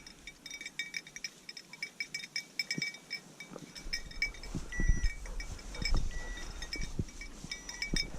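Small bell on a bird dog's collar tinkling irregularly as the dog moves, with a few soft low thumps.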